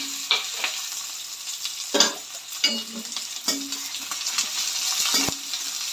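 Chopped onion, garlic and green chilli sizzling in hot oil in a metal kadhai as a tadka fries. A metal ladle stirs them, scraping and knocking against the pan about once a second.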